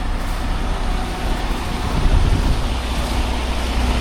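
Semi truck's diesel engine idling, a steady low rumble under an even hiss; the deep hum grows stronger about two seconds in.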